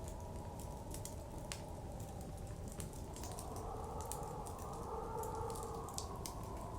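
A wood fire crackling with many small sharp pops, over steady blizzard wind that swells and rises in pitch about halfway through, then eases.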